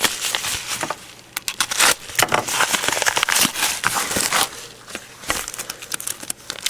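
Crinkling, crackling and rustling of mail packaging being handled and opened, with many small irregular clicks, busiest from about a second in to the middle and again near the end.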